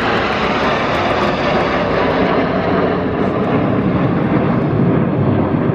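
Formation of Red Arrows BAE Hawk T1 jets flying past, a loud, steady jet rush with no sudden changes.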